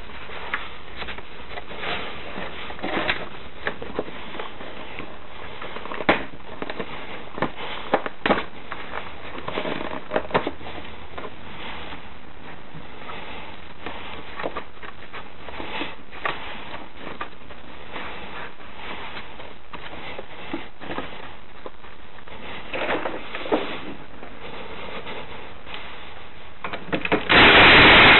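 Scattered metallic clicks and knocks of hand tools and parts being handled while working on a Honda Today AF61 scooter's engine mounting. Near the end a loud burst of noise lasts about a second.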